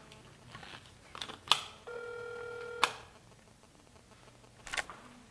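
A telephone line tone heard over a phone's speaker: one steady electronic beep of about a second, about two seconds in, with a few sharp clicks before and after it.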